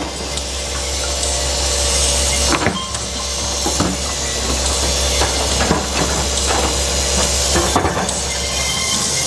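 John Deere excavator working rock: a steady low engine drone with a hiss over it, and irregular sharp knocks and clanks from the bucket against the rock.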